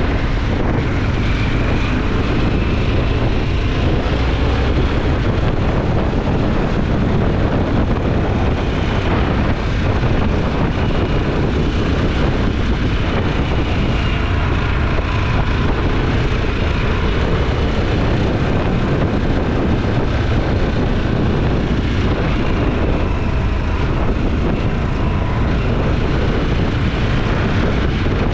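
Motorcycle engine running steadily at riding speed, with wind buffeting the microphone.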